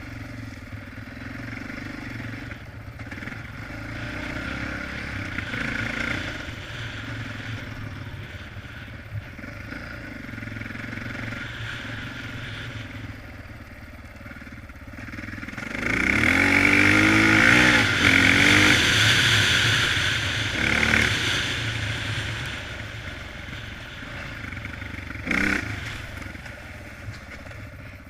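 Honda XR650R single-cylinder four-stroke dirt bike engine running under way. About halfway through it is throttled up louder for a few seconds, its pitch climbing and dropping as it revs, then it settles back to a steadier run. A short, sharp sound comes near the end.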